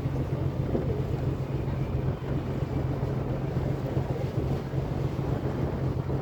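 Ferry boat's engine running with a steady low drone, with wind blowing on the microphone.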